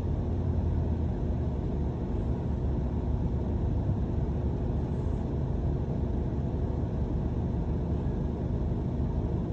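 London bus running, heard from inside the bus as a steady low engine and road rumble.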